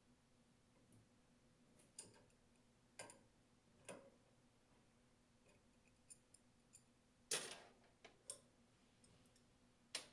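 Scattered small clicks and knocks of detergent pump parts being handled while the check valve is reassembled, about one a second, with a louder knock about seven seconds in; between them near silence.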